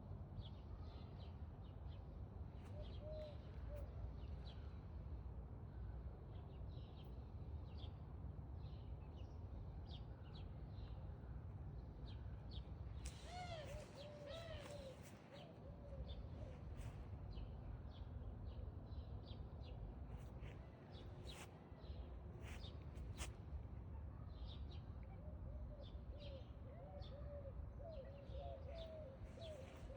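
Birds chirping in short, scattered high calls, with low wavering cooing about halfway through and again near the end, over a steady low rumble.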